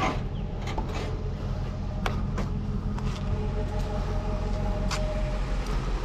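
Vehicle driving: a steady engine and road rumble with scattered light clicks and rattles.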